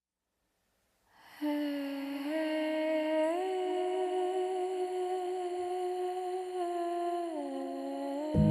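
A voice humming a slow melody in long held notes. The pitch steps up twice, holds, then steps back down, and instrumental music comes in right at the end.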